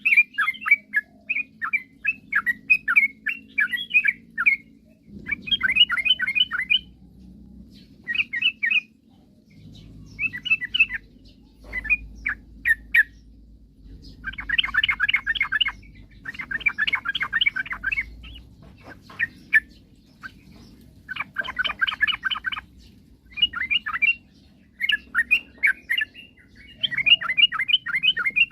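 Yellow-vented bulbul (trucukan) singing vigorously in short bursts of rapid bubbling notes, phrase after phrase with brief pauses, over a faint low hum.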